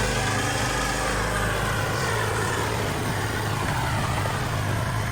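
Gas snow blower engine running steadily under load while clearing snow, with a continuous noise of churning and thrown snow over the engine hum.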